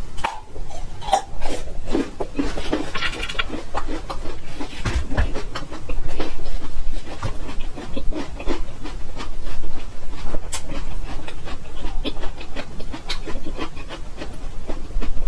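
Biting into and chewing a raw ginger root: irregular, crisp crunches as the fibrous root breaks between the teeth, interleaved with wet chewing.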